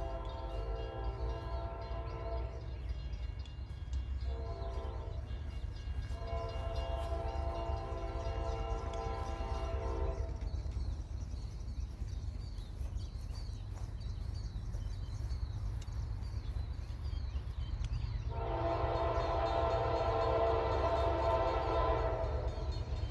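Diesel freight locomotive's air horn sounding a chord in a series of blasts: one ending a few seconds in, a short one, a long one, then after a pause another long one near the end, over the low rumble of the approaching train.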